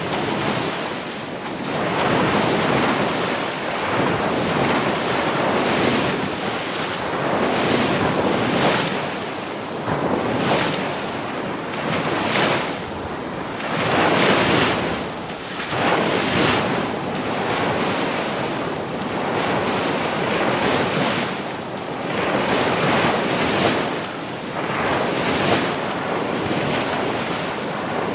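Ocean surf: waves breaking and washing in as a continuous rush that swells and eases about every two seconds.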